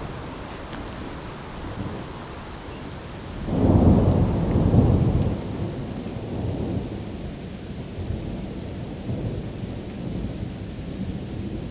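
Steady rain with a low thunder rumble that swells suddenly about three and a half seconds in, stays loudest for about two seconds, then rolls off.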